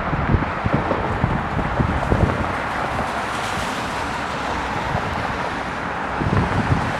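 Wind buffeting the microphone in irregular low gusts over a steady, even roar of distant airport and traffic noise.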